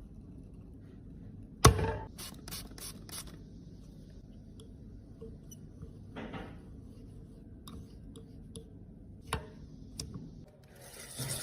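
Makeup products and tools handled on a hard surface during a cosmetic repair: a sharp knock, then a quick run of taps and clicks, a short scrape, and a few more clicks.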